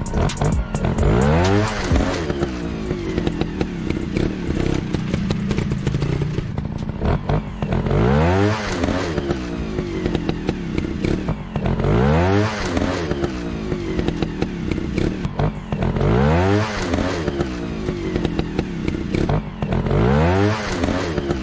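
Motorcycle engine revving up and dropping back about every four seconds, with clattering and scraping between the revs.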